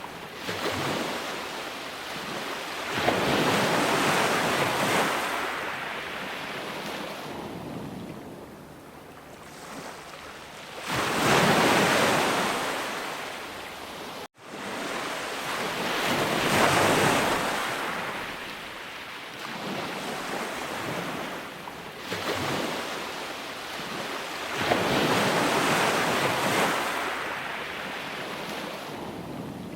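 Sea waves breaking and washing up the shore, with four swells of hissing surf each rising and falling over a few seconds. The sound cuts out suddenly for an instant about halfway through.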